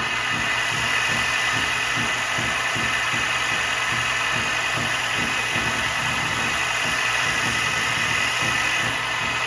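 Grizzly H8192 1x42 belt and 8-inch disc combo sander running steadily with no load, on its first test run to check the belt tracking.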